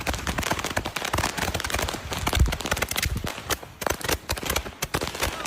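Fireworks and firecrackers going off in a dense, rapid string of cracks and pops, with a heavier bang about halfway through.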